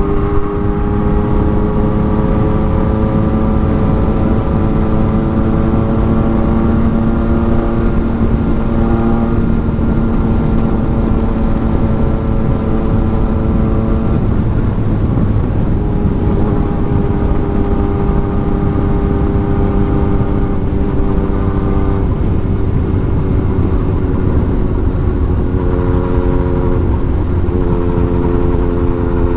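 Yamaha MT-09's inline three-cylinder engine running hard at high speed through an aftermarket exhaust, its pitch creeping slowly upward, over heavy wind rush on the microphone. The engine note drops away about halfway through and again later, then comes back.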